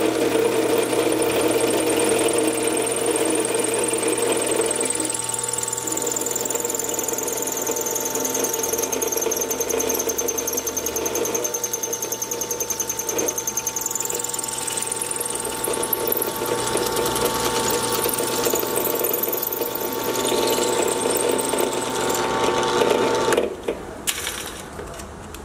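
Drill press running as a keyway is cut into a steel pulley: a steady motor hum with a high whine that dips and rises in pitch. The machine is switched off near the end and the sound drops away sharply, leaving a few clicks.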